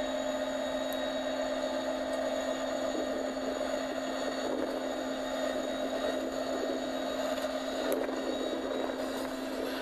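Train running on the tracks: a steady mechanical hum with constant tones, with a few faint clicks about a second in and near the end.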